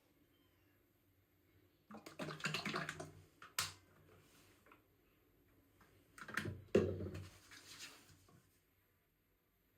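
Indoor handling noises: two short spells of rustling and clattering of objects, with one sharp click between them.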